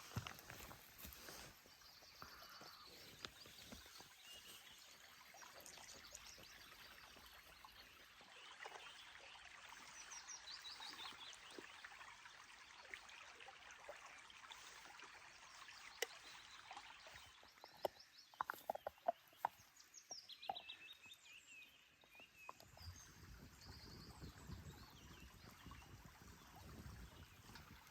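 Faint outdoor ambience with distant birds calling a few times in quick chirping runs, and a cluster of sharp clicks about two-thirds of the way through.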